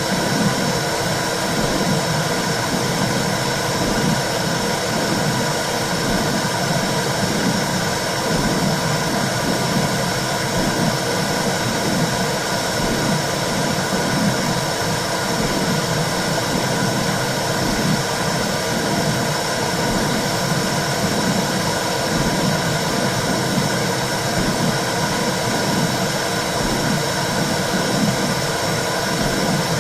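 Womb sound for soothing a baby: a steady whooshing noise with a low, regular pulsing beneath it, like blood flow and a heartbeat heard from inside the uterus.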